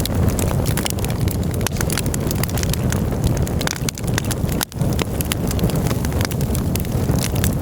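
Wood campfire crackling, with frequent sharp pops and snaps over a steady low rumble.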